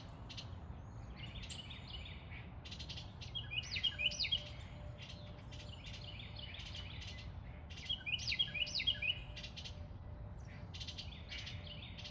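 Songbirds calling and singing: two loud song phrases of quick rising and falling whistled notes, about four seconds apart, over softer scratchy chattering.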